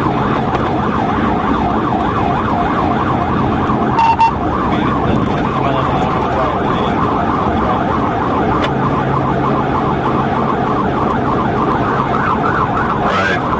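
Police car siren sounding continuously in a rapid warbling yelp during a pursuit, over steady vehicle hum. A short beep sounds about four seconds in.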